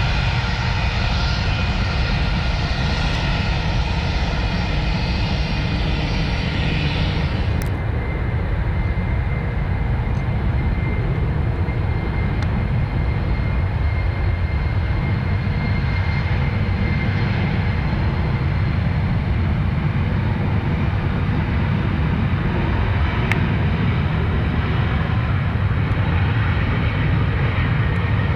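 Airliner engines running steadily and loudly at close range, a constant rumble and hiss. About eight seconds in the high hiss falls away suddenly, leaving a faint steady whine over the rumble.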